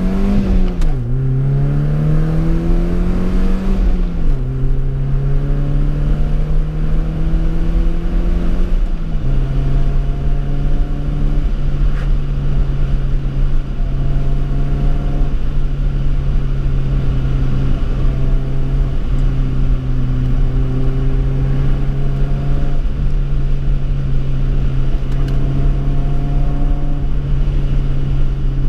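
BMW E30 318i four-cylinder engine with a sports exhaust, heard from inside the cabin, accelerating through the gears. Its pitch climbs and drops at upshifts just after the start and about four seconds in, dips again about nine seconds in, then holds a steady cruise.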